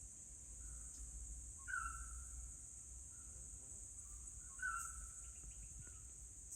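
Forest ambience: a steady high-pitched insect drone, with a bird repeating a short call, the two loudest calls about two seconds and about five seconds in.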